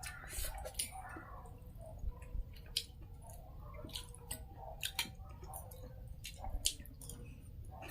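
Quiet eating sounds: irregular small clicks and smacks of chewing at a meal.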